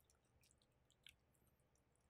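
Near silence, with only a few faint scattered clicks of someone chewing food, the clearest about a second in.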